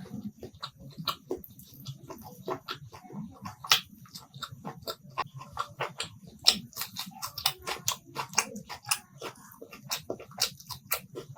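Close-miked chewing of a mouthful of curry meal, with many quick, sharp mouth clicks and smacks at an uneven pace.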